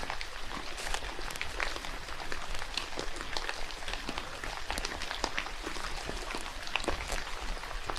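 Rain falling in a forest: an even hiss with many irregular drips and pattering ticks.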